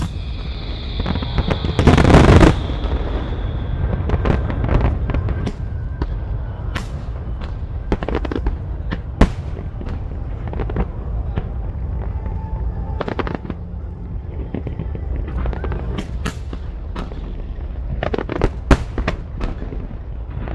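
Aerial fireworks exploding: one big blast about two seconds in, then a steady run of sharp cracks and bangs over a continuous low rumble.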